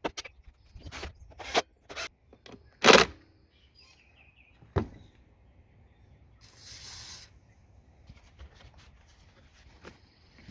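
A series of sharp clicks and knocks from parts and tools being handled, the loudest about three seconds in and another near five seconds, then a short hiss lasting about a second. Faint bird chirps in the background.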